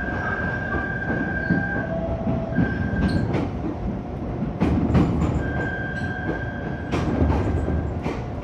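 A train rolling slowly on the rails: a steady rumble, several sharp knocks as the wheels cross rail joints, and a thin high wheel squeal that fades out and comes back twice.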